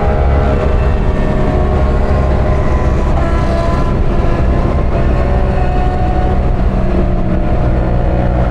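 Parallel-twin motorcycle engine running hard at near top speed on the highway, with steady wind rush over the helmet microphone: the bike is close to maxed out.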